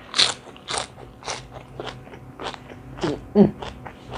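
Close-up eating sounds: a series of crisp crunching bites and chewing, typical of raw vegetables eaten with a spicy salad.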